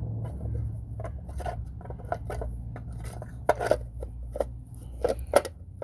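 Irregular clicks and knocks of tools and parts being handled during a tire change, a few sharper clanks about three and a half and five seconds in, over a steady low hum.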